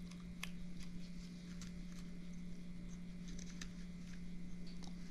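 Faint, scattered light clicks and taps of small plastic parts being handled while the DJI Mic 2 kit is fitted, over a steady low hum.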